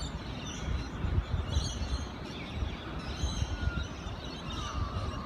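Birds chirping over a low, uneven rumble, with a short thin squeal about four seconds in.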